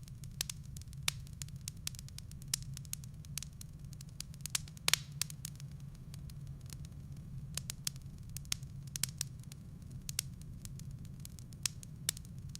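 Wood fire burning in a fireplace: irregular sharp crackles and pops of burning firewood, a louder cluster of pops about five seconds in, over a steady low rumble.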